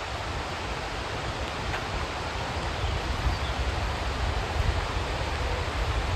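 Steady rain falling, an even hiss, with a low, uneven rumble underneath.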